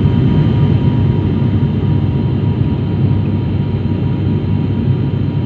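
Airliner cabin noise in flight on descent: a steady, loud rumble of jet engines and airflow with a faint steady whine above it.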